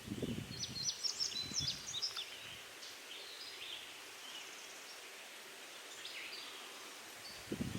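Small birds chirping and singing in quick high notes, busiest in the first couple of seconds and scattered after that, with low rustling near the start and again near the end.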